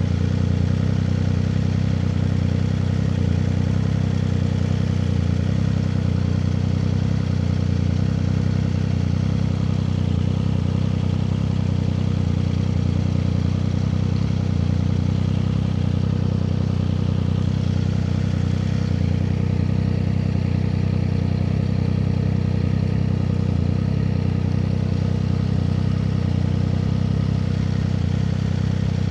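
Triumph Street Triple 765 RS's inline three-cylinder engine running at a steady, unchanging engine speed.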